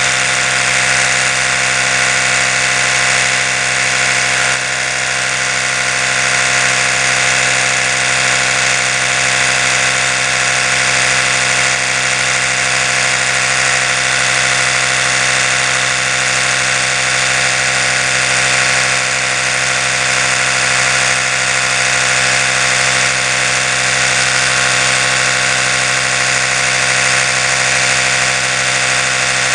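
Oral-B electric toothbrush running continuously, a steady motor hum that holds one pitch throughout.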